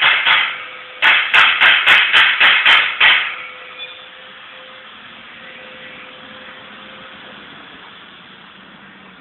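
A lovebird giving a rapid run of harsh, screechy calls, about four a second, stopping about three seconds in, followed by a steady low background hum.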